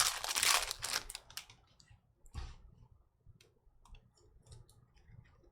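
Foil wrapper of a Panini Prizm basketball card pack being torn open and crinkled for about the first second and a half, then light clicks as the trading cards are handled.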